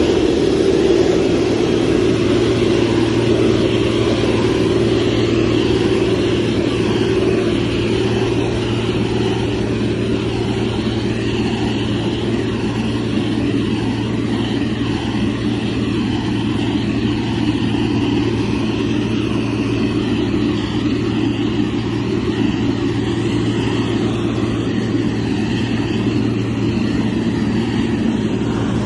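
Motor grader's diesel engine running steadily under load, with a deep, even hum that eases slightly about eight seconds in.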